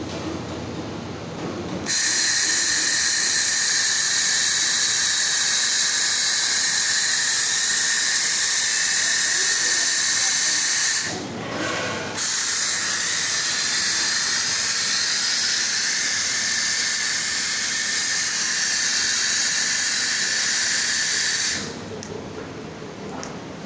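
Automated flatbed laser welding machine making a weld: a loud, steady hiss with a faint whistling tone. It breaks off for about a second midway through, then resumes, and stops near the end, leaving a quieter machine hum.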